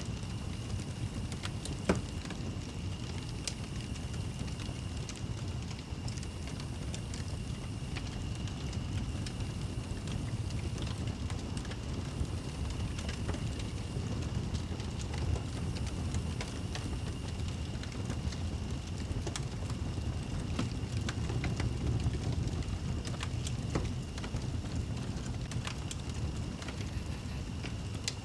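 Wood fire crackling in a fireplace, with scattered small pops and one louder pop about two seconds in, over a low steady rumble.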